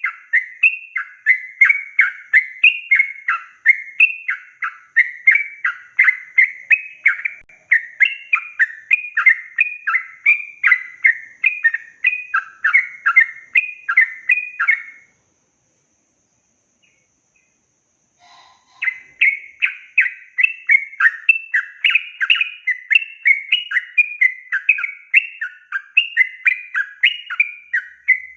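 Yellow-vented bulbul (trucukan) singing a long, rapid run of short chattering notes, about three a second. The song breaks off about halfway for a few seconds of silence, then starts up again.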